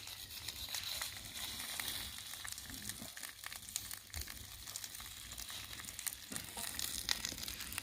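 Breadcrumbed fish sizzling in a cast-iron frying pan over a wood fire, a steady hiss with many small pops and crackles, just after the pieces have been turned.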